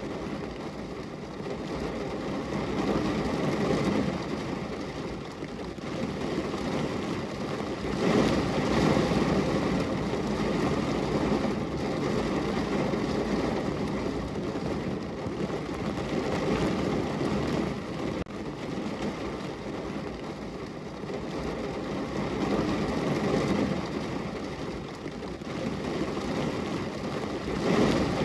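Rain heard through a window glass: a steady, muffled rushing that swells and fades in waves lasting several seconds, loudest about eight seconds in.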